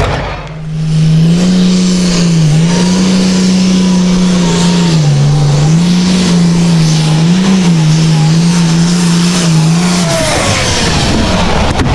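Tractor engine running hard at high, nearly steady revs, its pitch dipping briefly several times, then the steady note ends about ten seconds in.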